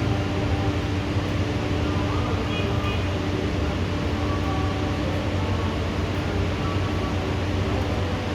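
Steady rain falling in a thunderstorm, an even hiss with a low hum underneath and no thunder clap.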